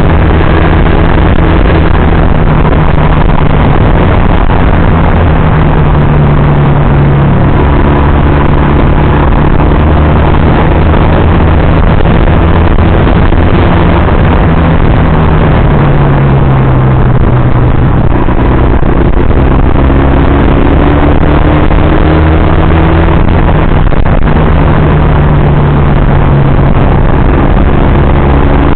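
Motorcycle engine running under way, its note slowly dipping and rising as the revs change, over a loud, steady rush of wind and road noise.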